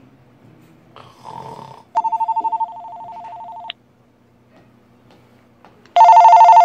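A telephone ringing with a trilling two-tone ring: one ring about two seconds in that drops quieter after its first part, and a second loud ring near the end. Just before the first ring, a short snore.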